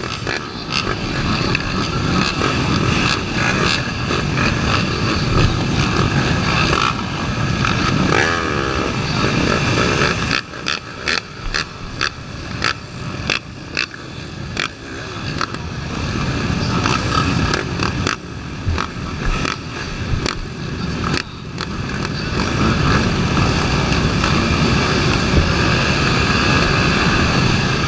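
Honda Tornado 250 dirt bike's single-cylinder four-stroke engine running off-road under load. In the middle it goes through a stretch of quick throttle-on, throttle-off surges, about one and a half a second, then it pulls steadily and loudest near the end.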